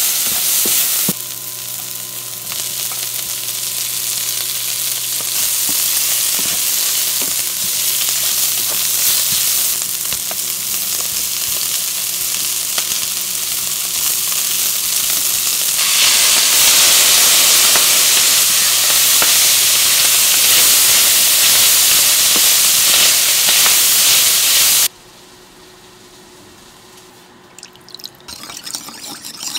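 Chopped vegetables, mushrooms and rice sizzling in butter in a hot wok while being stirred with a wooden spoon. The sizzle grows louder a little past halfway, then cuts off sharply near the end, leaving a few faint clicks.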